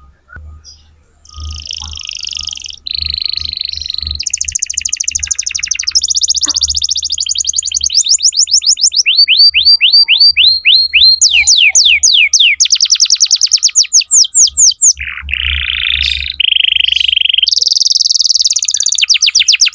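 Domestic canary singing a long, loud song made of trilled phrases, each a fast run of one repeated note. The phrase changes every second or two, and a stretch of rapid sweeping notes comes in the middle.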